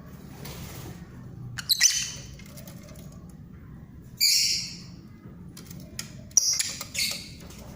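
Pet birds squawking: several short, harsh, high-pitched calls a couple of seconds apart.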